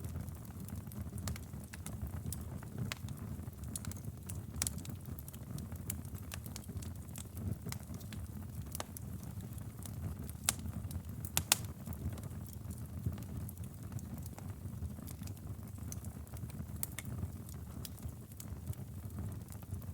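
Wood fire burning in a fireplace: a steady low rumble of flames with scattered sharp crackles and pops, two louder pops a little past halfway.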